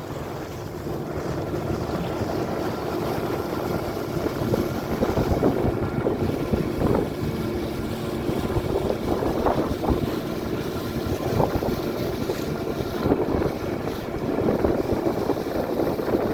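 Strong gusty wind buffeting the microphone as a storm comes in, with a faint steady hum underneath.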